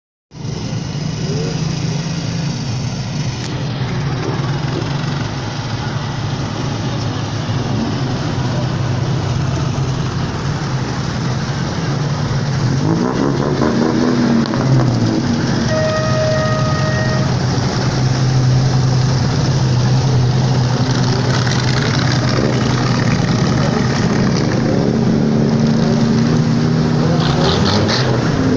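Vehicle engines at a classic car and motorcycle meet running at idle, the revs rising now and then. A little past halfway a single steady tone sounds for about a second.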